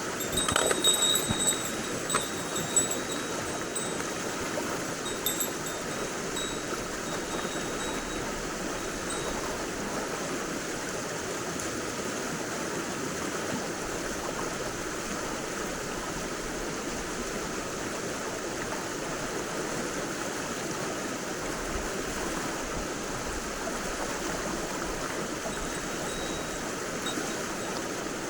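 Mountain stream water flowing steadily. In the first several seconds a small bell gives a few high, thin tinkles.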